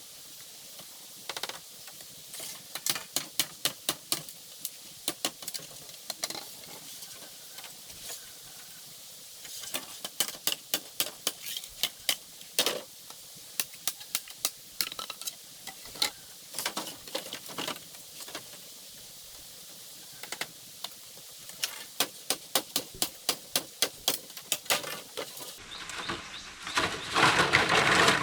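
Runs of quick, sharp taps, several a second, with short pauses between the runs. Near the end a louder, denser sound takes over.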